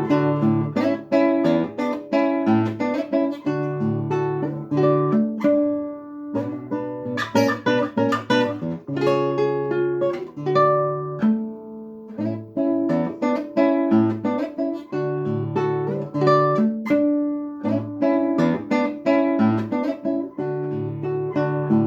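Solo acoustic guitar playing a fingerpicked piece, plucked melody notes over repeating bass notes, thinning out briefly twice before picking up again.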